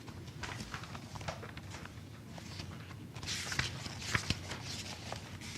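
Paper rustling as bid documents are handled and leafed through, with scattered light knocks and taps. The rustling grows louder about three seconds in.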